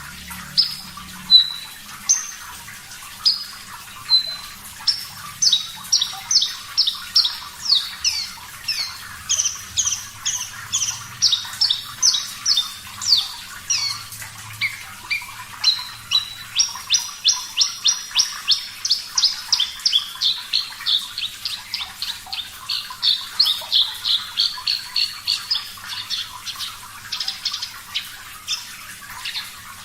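Horsfield's bush lark (branjangan, Mirafra javanica parva) singing: a long run of short, sharp chirps and quick down-swept notes. The notes are sparse at first, then come several a second, over a steady background hiss of water.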